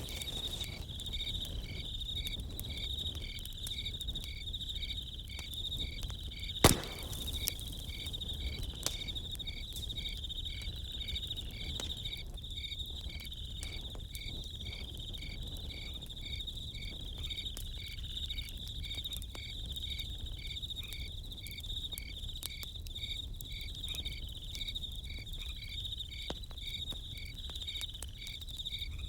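Crickets chirping steadily: a continuous high trill with a second, pulsed chirp repeating about twice a second. A campfire crackles with scattered small pops, and one sharp, louder pop about seven seconds in.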